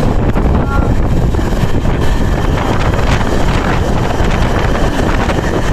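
Wind buffeting the microphone over the steady rumble of a moving passenger train, loud and unbroken throughout.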